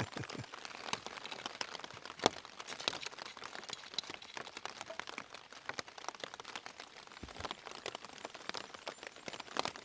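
Rain pattering on a tent's fabric: a faint, even hiss full of irregular drop ticks, with one sharper tick about two seconds in.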